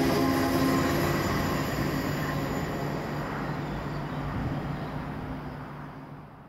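A train moving away along the line, its running noise and low hum fading steadily.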